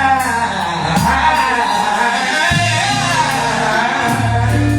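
Live gospel worship song: a male lead singer draws out a word in a long wavering run over a band with steady bass notes and a regular cymbal beat.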